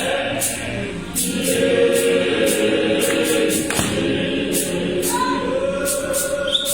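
Gospel choir singing a Sesotho hymn in sustained multi-part harmony, with a steady high ticking percussion beat about twice a second.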